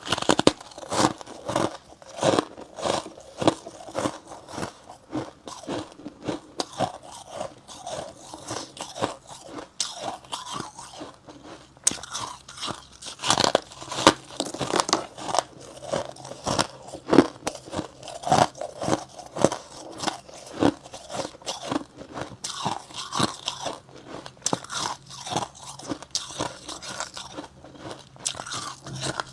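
A person biting into and chewing slabs of freezer frost: a continuous, irregular run of crisp crunches.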